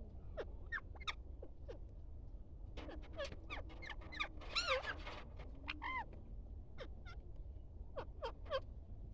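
Birds calling: scattered short chirps and squawks, with a loud drawn-out arched call about four and a half seconds in and a pair of quick calls near the end.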